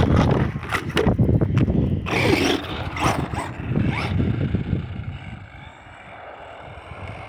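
Arrma Vorteks 2WD brushless 1/10 RC truck running on pavement: the electric motor gives short rising whines as the throttle is blipped, over the scrape and crackle of the tyres on the road. It turns quieter about five seconds in.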